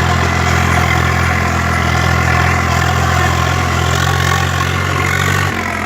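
Tractor's diesel engine running steadily at low revs under a heavy load, its pitch sagging briefly near the end.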